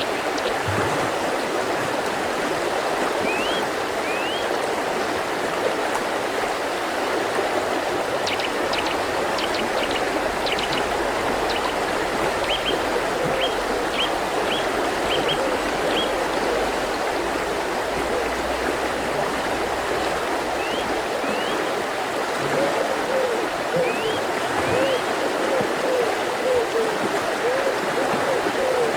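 Mountain river flowing steadily, with small birds giving short high chirps now and then, including a quick run of chirps in the middle.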